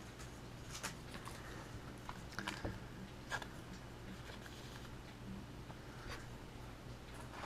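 Baseball trading cards being handled: scattered light clicks and rustles of card stock as cards are flipped and slid, a few bunched together near the middle, over a faint low hum.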